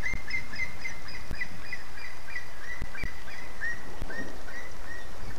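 A bird calling a quick series of short chirps, about three or four a second, slowing and fading near the end, over the steady hiss of rain.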